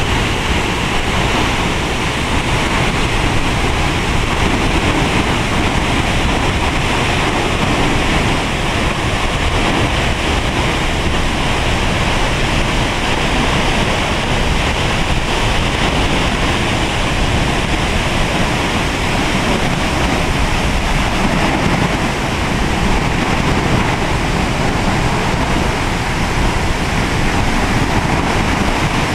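Waterfall swollen with rainy-season flow: a loud, steady rush of falling water.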